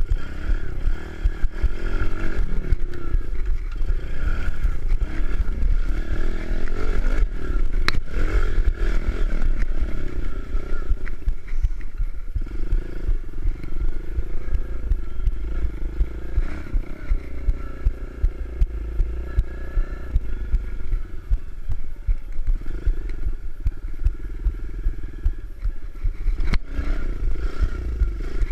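Kawasaki KLX110 pit bike's small four-stroke single-cylinder engine revving up and down repeatedly while riding, under a constant low rumble, with a few sharp clicks.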